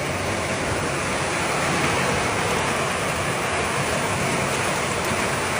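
Heavy rain and hail falling hard in a steady, dense hiss.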